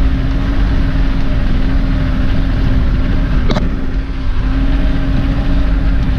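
Vehicle engine running steadily in low gear while climbing slowly, a deep rumble with a steady hum, and one short sharp click about three and a half seconds in.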